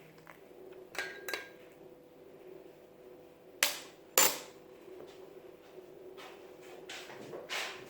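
Sharp knocks and clinks of hard objects being handled and set down. The two loudest come about half a second apart in the middle, with smaller knocks before and after, over a faint steady hum.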